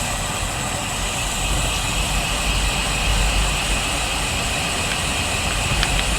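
Steady wind rush and tyre noise on a GoPro microphone riding along on a road bike, an even noise with a heavy low rumble.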